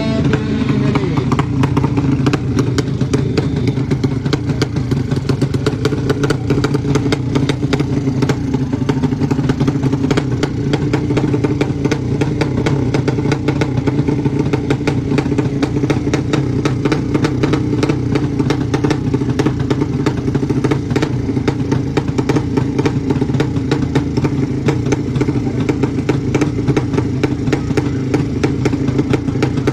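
Motorcycle engine idling, holding a steady, even beat with no revving.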